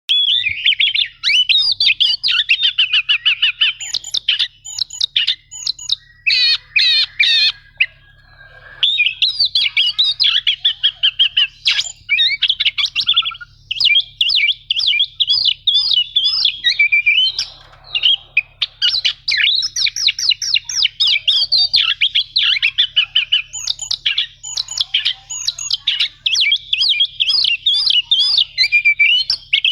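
Oriental magpie-robin (kacer) singing a fast, loud, near-unbroken song of rapid chattering notes and long rolls, with brief pauses about 8 and 17 seconds in.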